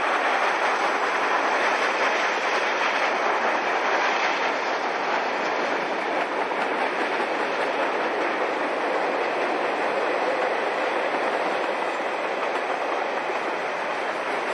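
Conrail freight train of hopper cars and boxcars rolling past, with a loud, steady noise of steel wheels running on the rails.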